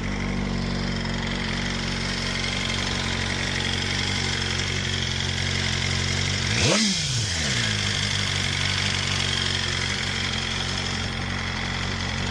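BMW M1000RR's inline-four engine idling through an Akrapovič exhaust, with one quick blip of the throttle about two-thirds of the way through that rises and drops straight back to idle.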